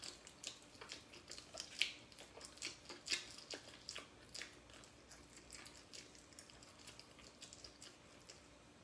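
Close-up chewing of cheesy bread with bacon: a run of small wet clicks and smacks, thicker in the first few seconds and thinning toward the end.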